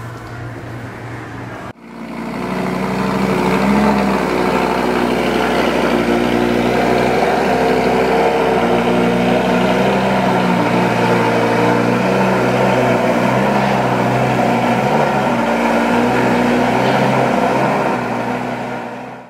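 A sports car's engine running loud and fairly steadily, its note shifting up and down a little. It starts sharply about two seconds in and dies away near the end.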